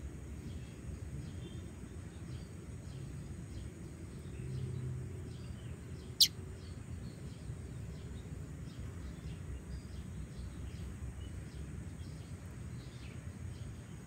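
Faint background noise with scattered faint ticks, broken once about six seconds in by a single short, sharp, high chirp from a female black-winged flycatcher-shrike (jingjing batu).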